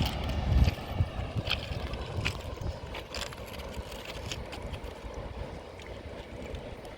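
Low rumble of a passing train dying away in the first second, leaving a quieter, steady low rumble with scattered faint clicks.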